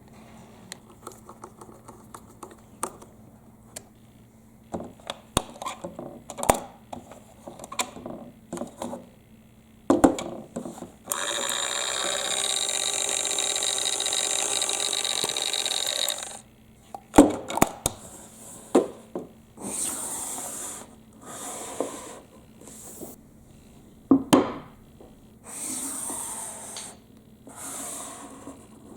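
Small balls clicking and clattering as they roll down a wooden zigzag marble-run track. About eleven seconds in, a mini toy washing machine's small motor runs steadily for about five seconds, and several short hissing swells follow in the later part.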